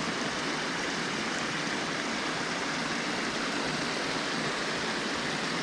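Steady rush of water pouring over a small creek spillway, an even unbroken wash.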